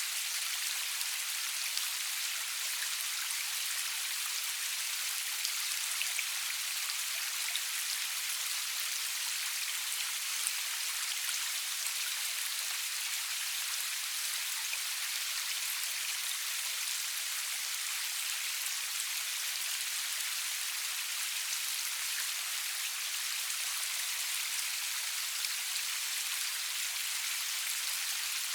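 Steady rain, a dense even hiss of falling drops with scattered individual drop ticks, no thunder.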